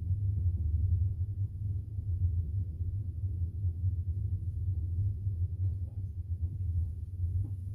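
Steady low rumble of a moving double-decker passenger train, heard from inside the carriage.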